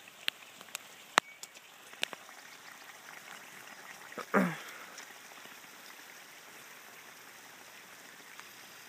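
Light rain falling as a steady faint hiss, with a few sharp clicks in the first two seconds and a brief, falling vocal sound about four seconds in.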